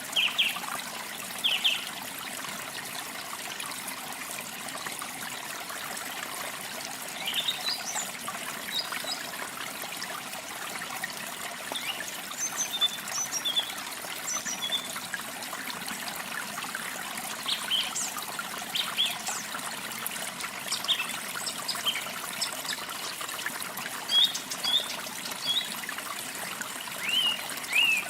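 Water trickling steadily, like a small stream, with small birds giving short high chirps on and off over it. The chirps come more often after the first several seconds.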